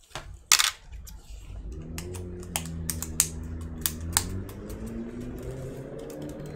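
Clicks and knocks of a ThinkPad laptop being handled on the bench: one sharp knock about half a second in, then a scatter of key-like clicks between about two and four seconds in. A low hum runs beneath from about two seconds in.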